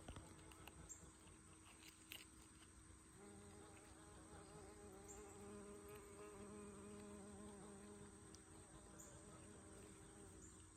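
Faint buzzing of a flying insect's wings, a wavering hum that starts about three seconds in and dies away near the end.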